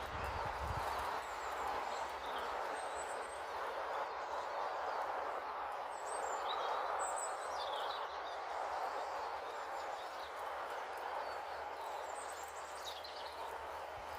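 Small birds giving short, scattered chirps over a steady background hiss.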